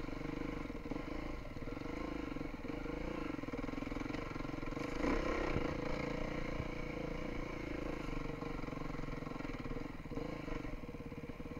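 Beta 350 enduro dirt bike's engine running onboard under constantly changing throttle while climbing a forest trail, with a louder burst and a few knocks about five seconds in.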